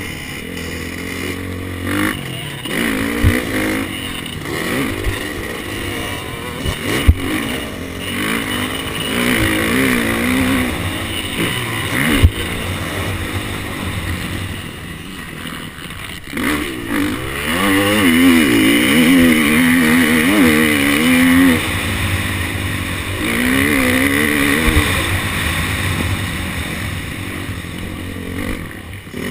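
KTM 250 SX-F motocross bike's single-cylinder four-stroke engine revving up and down as it is ridden hard around a track, the pitch rising and falling with the throttle. A few sharp knocks cut through, the loudest about seven seconds in.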